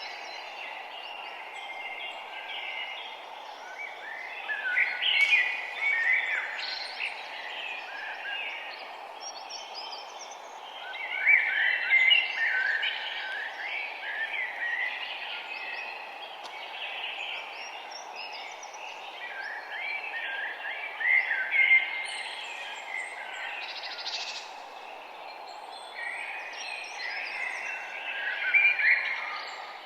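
Several songbirds chirping and singing in quick overlapping phrases, louder in spells, over a steady background hiss of outdoor ambience.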